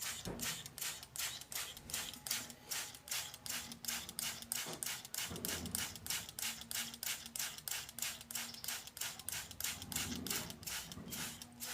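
Male hill prinia calling in a fast, unbroken series of sharp, harsh chip notes, about four to five a second. A faint steady hum and a few soft low thumps lie beneath it.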